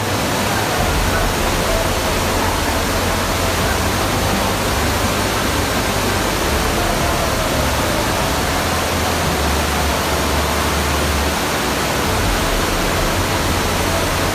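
Steady rushing noise that starts suddenly and holds even throughout, with a low rumble beneath it.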